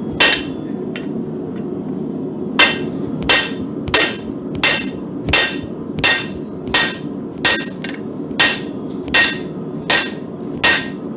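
A hand hammer striking hot mild steel on an anvil: one blow, a pause of about two seconds, then a steady run of blows about every 0.7 seconds, each with a short metallic ring. A steady low roar continues underneath.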